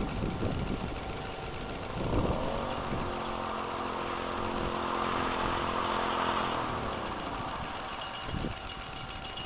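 Predator small engine on a homemade motorbike revving up about two seconds in, holding steady at speed, then dropping back to a lower speed around seven seconds in.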